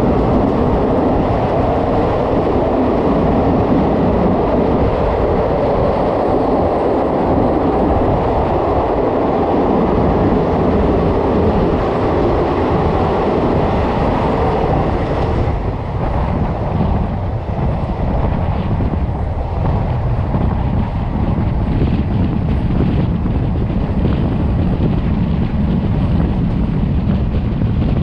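Passenger train running at speed, heard from an open door or window: steady loud wheel and rail noise, enclosed by a tunnel. About halfway through, as the train leaves the tunnel, the sound changes to a lower, rougher rumble.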